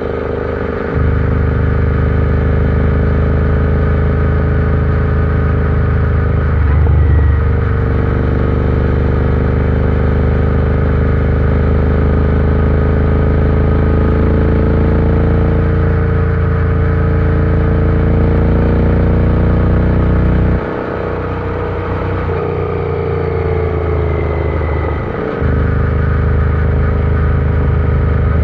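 Royal Enfield Interceptor 650's parallel-twin engine running steadily while the bike is ridden, its pitch drifting slightly up and down. The deep low rumble of the exhaust comes in about a second in and drops away for several seconds about two-thirds of the way through, likely when the throttle is eased.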